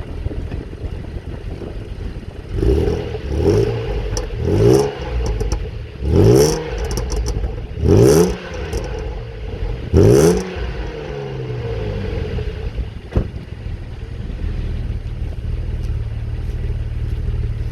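Vauxhall Omega engine revved in six quick throttle blips, each rising in pitch and dropping back, then running at a steady idle. A single sharp knock comes a little after halfway.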